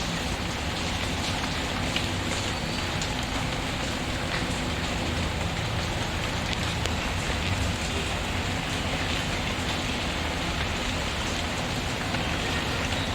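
Steady rain falling, mixed with the light crackle of a wood fire in a fireplace: an even hiss with scattered small ticks and pops.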